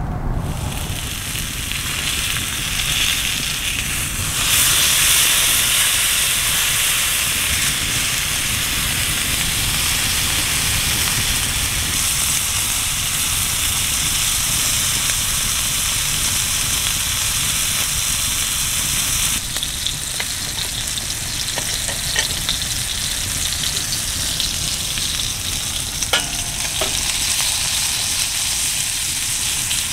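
Food sizzling and frying in a pan: a steady hiss that shifts abruptly in level a few times, with a few light clicks of utensils in the second half.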